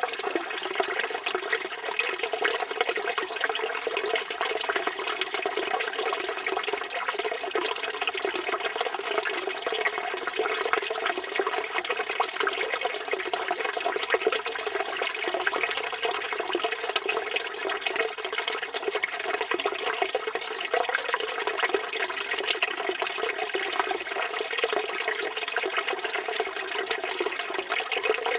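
Water from a village fountain's spout pouring steadily and splashing into the basin below, a constant splashing that does not change.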